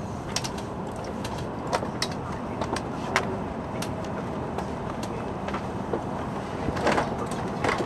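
Steady hum of a stationary Shinkansen car during a station stop, with scattered short, sharp sounds over it.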